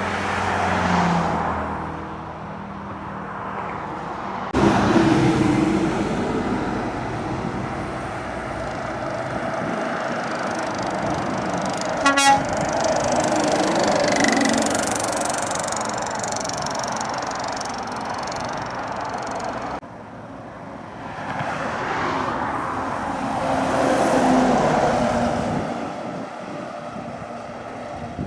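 Heavy trucks of 500-plus horsepower pull up a long climb under load, their engines working hard as they pass one after another. The sound swells and fades with each truck and changes suddenly twice. About halfway through there is a short, sharp burst of rapid clicks.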